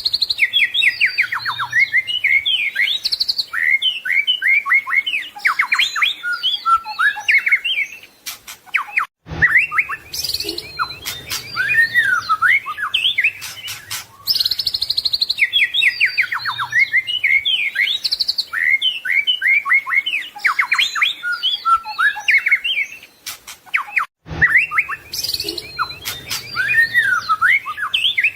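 White-rumped shama (murai batu) singing a fast, varied song of whistles, chirps and trills packed with mimicked phrases of other birds. Brief cuts come about 9 and 24 seconds in, and the same sequence of phrases repeats after each cut.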